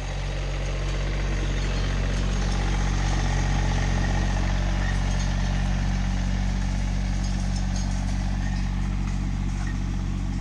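Massey Ferguson tractor engine running steadily under light load, growing a little louder over the first couple of seconds and then holding an even pitch.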